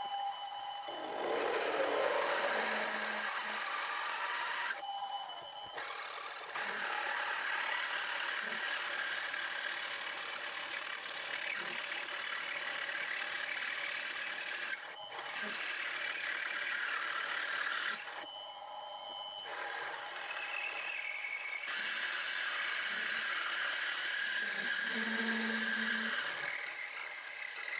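A 31/64-inch twist drill cutting into a metal casting under power: a steady, harsh cutting hiss over the machine's whine. It stops briefly about five seconds in and again near twenty seconds, where the drill is backed out to clear chips, leaving only the whine.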